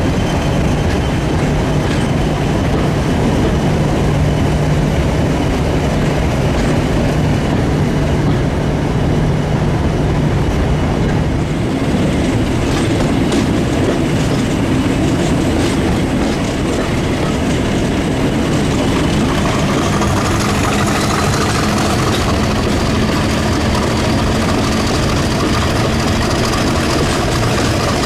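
Diesel-hauled train running on the rails: a steady engine note with wheels clicking over rail joints, and a whine that slowly rises in pitch in the later part.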